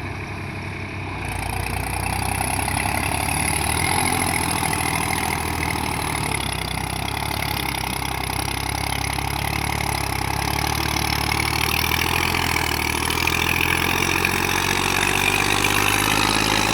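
Tractor engine running steadily at about idle, getting a little louder about two seconds in and then holding.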